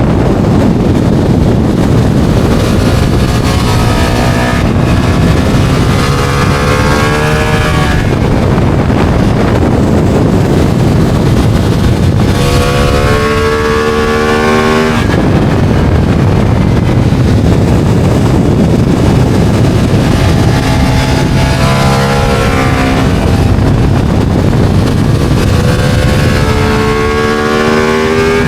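Ducati motorcycle engine heard from the bike at speed, revving up hard through the gears several times with gaps between pulls, under heavy wind rush on the microphone.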